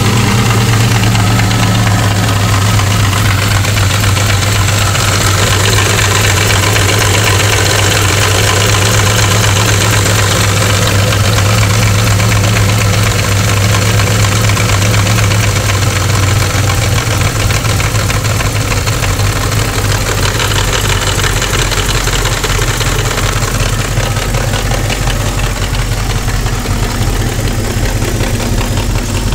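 A 2000 Lincoln LS's 3.9-litre V8 idles steadily just after starting. The engine has a bad valve, jumped timing and a broken secondary timing chain tensioner.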